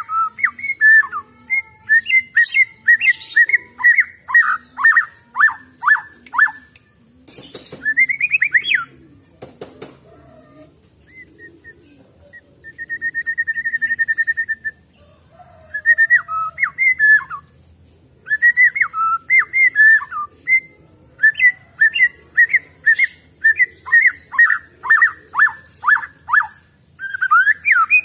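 White-rumped shama singing: loud bursts of quick, downward-sliding whistled notes in rapid series, broken by short pauses, with a fast buzzy trill about halfway through.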